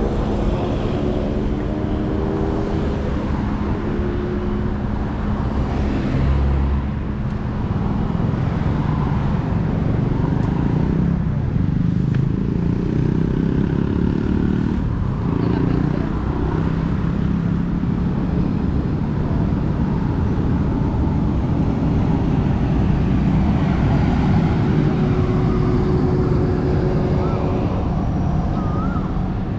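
Road traffic: motor vehicles running past as a steady rumble with engine hum.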